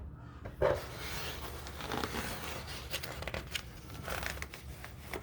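Rustling and crinkling of a faucet's packaging and paperwork being handled, with small clicks and knocks.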